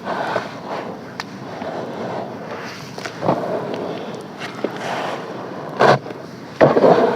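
Gritty crunching and crumbling of packed sand and charcoal, with several louder crushes, the loudest about six seconds in and just before the end.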